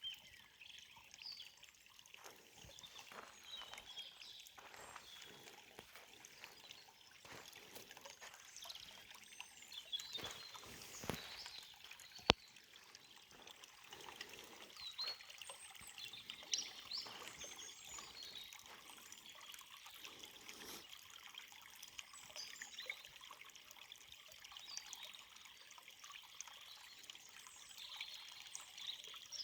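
Shallow forest stream trickling and babbling over stones, with faint short bird chirps now and then. A single sharp click about twelve seconds in.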